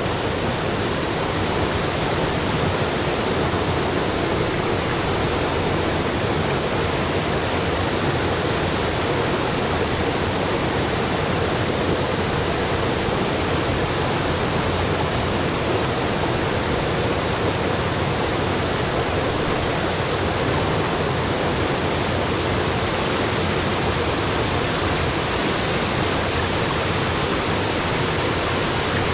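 Small mountain waterfall splashing into its pool, a steady even rush of falling water.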